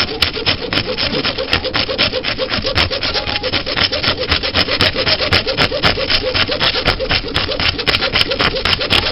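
A hand-held saw blade sawing through a dishwasher drain hose in rapid, steady back-and-forth strokes, several a second.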